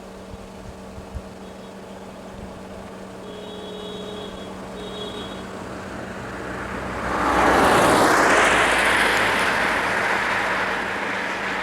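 A motor vehicle passes close by on the road. Its noise builds up, is loudest about two-thirds of the way through, then slowly fades, over a steady low engine hum.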